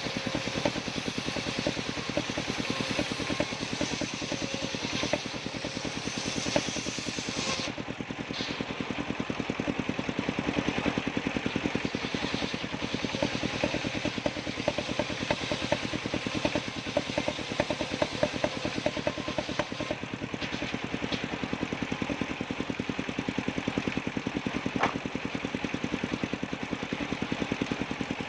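Engine of a circular sawmill running steadily with an even, rapid beat. A high hiss over it cuts off about eight seconds in.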